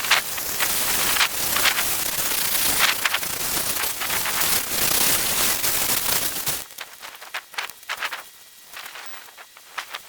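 Heavy rain pattering on a surface, a dense hiss full of sharp drop ticks, cutting off abruptly about two-thirds of the way in to leave a much quieter background with scattered ticks.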